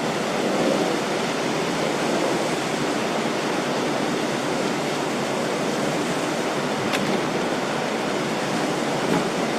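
Steady rush of water and wind from a 40 m carbon-fibre catamaran fast ferry under way, with a single faint click about seven seconds in.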